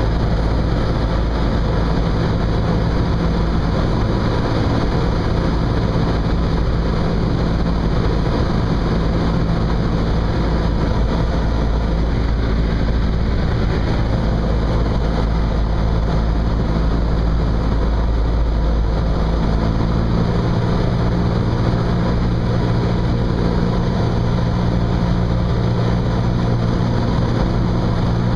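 Cessna 172's piston engine and propeller running steadily with a constant drone. The engine note grows stronger about two-thirds of the way in.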